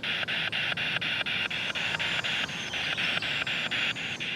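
Spirit box sweeping through radio stations: hissing static chopped into quick even pulses, about seven a second. A faint high whistle slides slowly downward in the second half.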